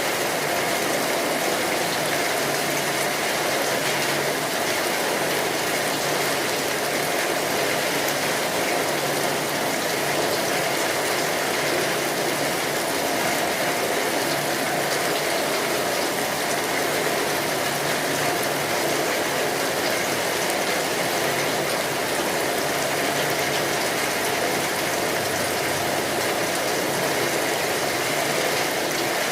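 Steady rain, a dense even hiss of falling drops that keeps the same strength throughout.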